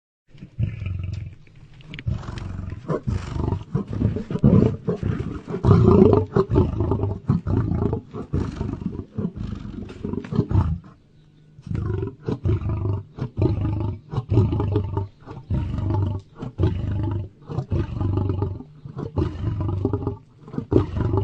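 Lion roaring: a long run of deep, pulsing roars, with a short pause about eleven seconds in before an even series of repeated roars.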